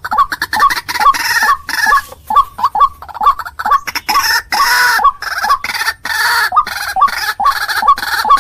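White-breasted waterhen (ruak-ruak) calling: a fast run of short, repeated notes, about three to four a second, with harsher, rasping calls laid over them. This is a trapper's lure recording of the species.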